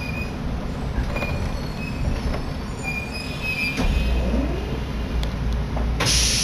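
Inside a train carriage as it slows beside a station platform: a steady rumble, with short high-pitched wheel squeals now and then. A sudden loud hiss starts near the end.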